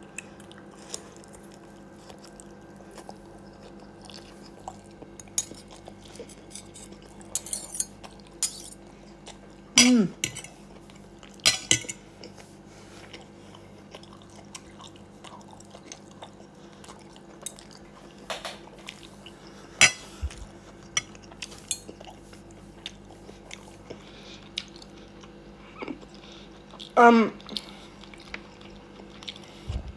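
Someone eating a meal: scattered clinks and taps of cutlery on a plate and chewing, over a steady low hum.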